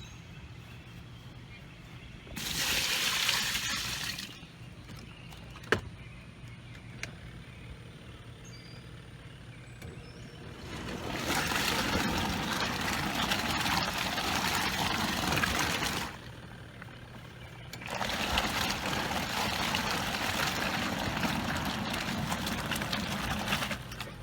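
Water splashing and sloshing in a portable camp washer during the rinse, in three stretches: a short one, then two of about five to six seconds each. There is a single sharp knock between the first two.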